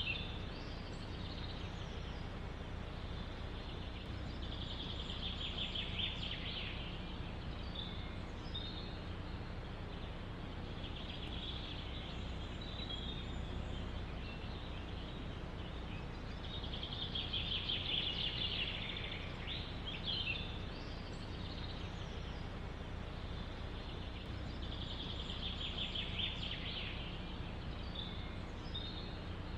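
A small songbird singing a rapid trill of repeated notes, each song lasting about two seconds and coming four times, with a few short chirps between. Under it runs a steady rush of wind through forest trees.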